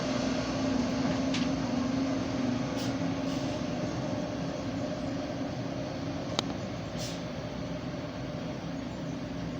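Truck engine running, its hum slowly fading as it moves away, with a sharp click about six seconds in.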